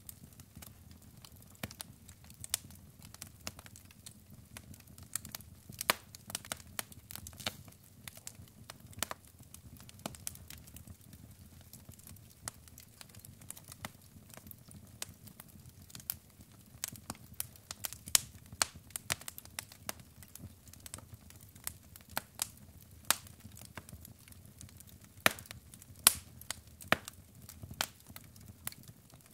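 Wood fire crackling in a fireplace: logs burning with irregular sharp snaps and pops, a few louder ones, over a low steady rumble of the flames.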